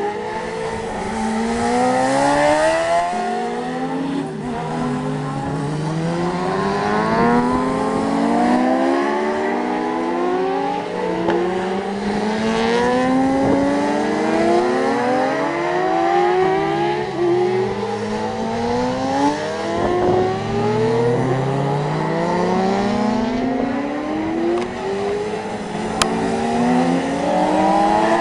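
Several racing motorcycles accelerating hard on a circuit, engines overlapping. Each engine's pitch climbs, drops at a gear change and climbs again, over and over.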